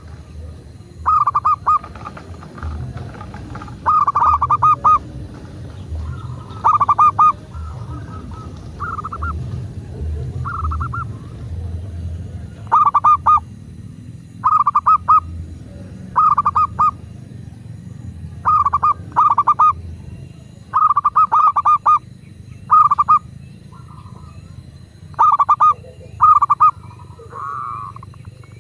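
Zebra dove (perkutut) cooing: short phrases of rapid stuttering notes, repeated every second or two, over a low steady rumble.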